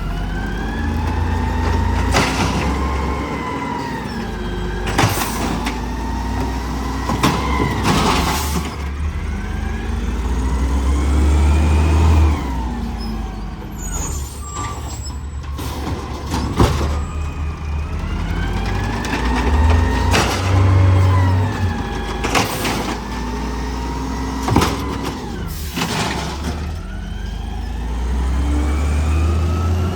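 Garbage truck's diesel engine running heavily, its pitch rising and falling again and again as it revs to work the hydraulics. Sharp clanks and bangs come every few seconds.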